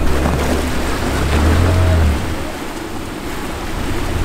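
Side-by-side UTV engine running low while the machine wades through water, with water splashing and churning around it. The engine's drone drops off about two seconds in.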